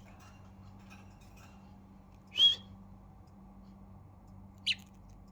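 Budgerigar chirping: one short, loud, high chirp about two and a half seconds in, and a shorter, fainter one near the end.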